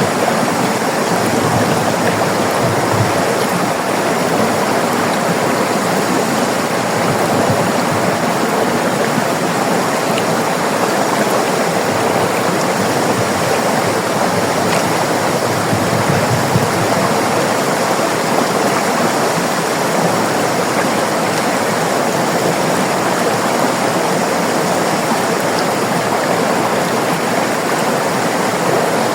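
River water flowing and rushing, a steady, even sound with no breaks.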